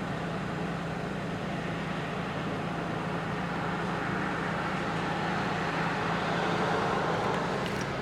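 Road traffic noise: a steady low hum with a vehicle passing, its hiss swelling through the second half and easing off near the end.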